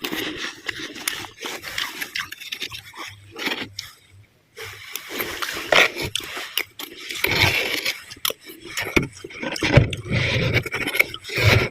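Soft frost being scraped up and crunched in quick, irregular scratchy bursts, with a short pause about four seconds in.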